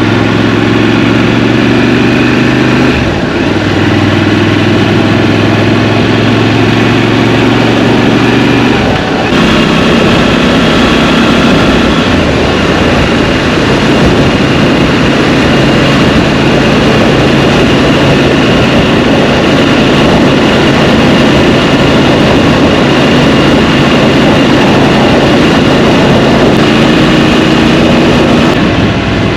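Scrambler motorcycle engine heard from the rider's seat while riding through traffic, mixed with rushing wind noise. The engine note changes about three seconds in and again about nine seconds in, then runs steadily with more wind.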